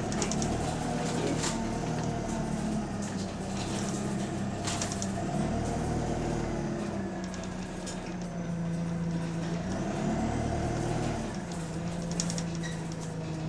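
Engine of a London bus, which has an exhaust leak, running as the bus drives, its note rising and falling a few times as it pulls away and eases off. A few brief sharp hisses or clatters sound over it.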